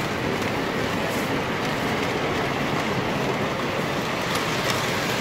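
Steady rumble of model trains running on a layout, heard over the constant noise of a crowded exhibition hall, with a few faint clicks.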